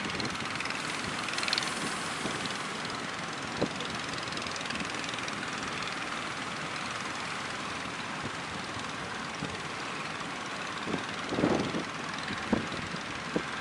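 Small fishing boats' engines droning steadily as they run out through the estuary mouth, with strong wind on the microphone and a few short buffets near the end.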